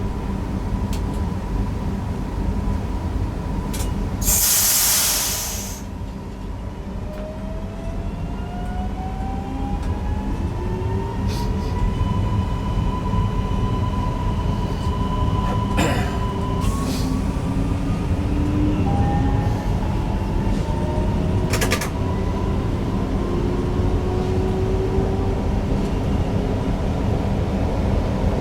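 Newag Impuls EN63 electric multiple unit pulling away from a stop, heard from the driver's cab: a short loud hiss about four seconds in, then the whine of its traction drive rising in pitch in several tones as it gathers speed over a steady rumble, with a few sharp clicks from the track.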